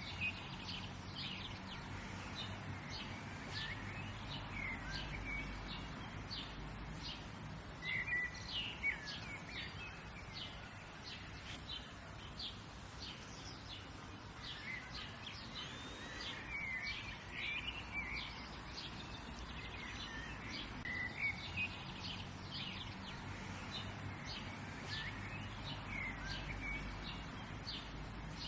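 Outdoor birdsong: several birds chirping and trilling, many short, quick calls overlapping throughout, over a faint steady low background hum.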